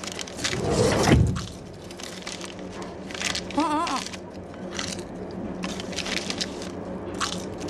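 Train carriage noise: a steady low running hum with scattered clicks and knocks. A loud rumble swells up about a second in, and a brief wavering tone comes near the middle.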